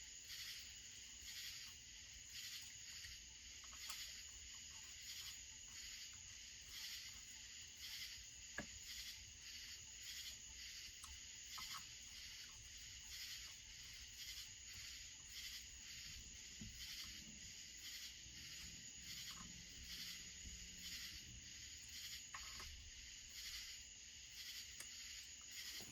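Faint, steady pulsing chirps of night insects, about two a second over a thin high whine, with a few light clicks of tools being handled.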